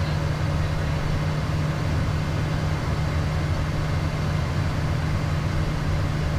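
Steady low drone of cockpit noise in a Beechcraft Premier 1A business jet in flight, from its engines and the airflow.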